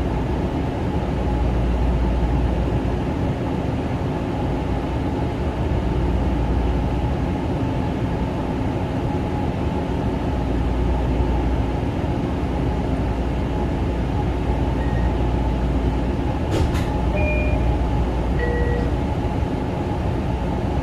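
Kawasaki M9 electric train running at speed on the Long Island Rail Road, a steady rumble of wheels on rail with a constant motor hum, heard from on board. A couple of clicks and two short tones come near the end.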